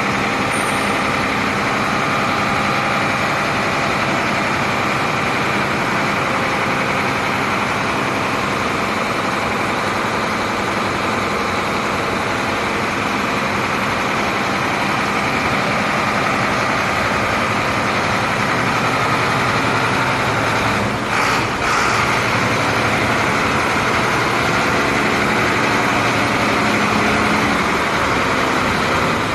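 HOWO heavy truck's diesel engine idling steadily, with a short break in the sound about two-thirds of the way through.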